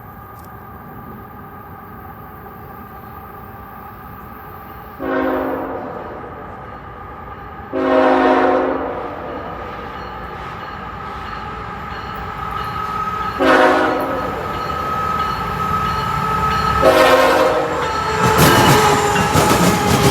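CSX freight train led by a GE ET44AH locomotive approaching at speed, its air horn sounding long, long, short, long: the standard grade-crossing signal. Under the horn the locomotives' engines hum steadily, and the rumble and clatter of the wheels on the rails grow louder as the train draws near and starts passing near the end.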